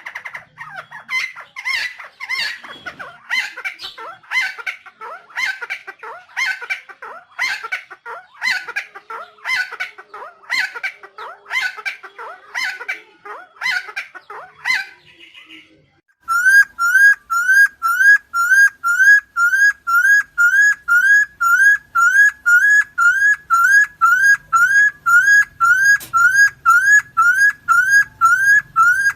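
Helmeted friarbird calls repeated over and over, a harsh note about every 0.7 s. After a short break about halfway through comes a steady run of identical rising whistled notes, nearly two a second.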